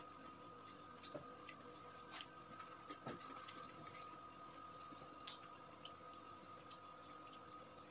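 Faint chewing and wet mouth clicks from people eating pizza slices, with a few small irregular clicks. A faint steady hum sits underneath.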